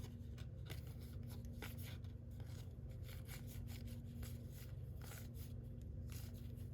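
Baseball cards being flipped and slid against one another in the hand: a run of faint light clicks and rustles over a steady low hum.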